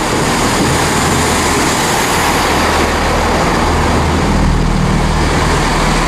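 Diesel train engine running steadily: a low hum under an even rush of noise, the hum swelling about four seconds in.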